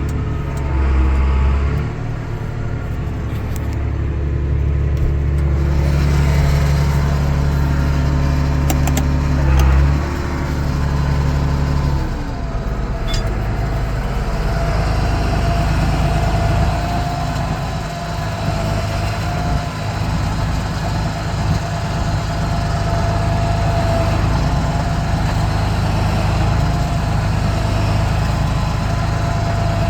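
Vehicle engine running steadily at low speed, with a change in its note about twelve seconds in.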